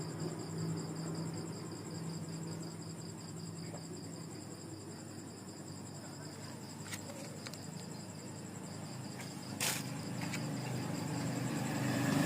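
Insects, likely crickets, trilling steadily in a fast high-pitched pulse, with a low background hum and one brief knock about ten seconds in.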